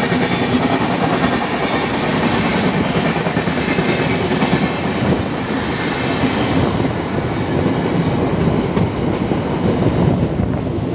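Two trains running side by side on parallel tracks, heard from the doorway of a moving Mumbai suburban local train: a steady running noise of wheels on rail from the local itself and from the coaches of the 12107 Sitapur superfast express alongside.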